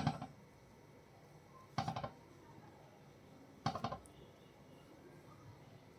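Eating sounds close to the microphone: three short bursts of rapid clicking about two seconds apart, over quiet room tone.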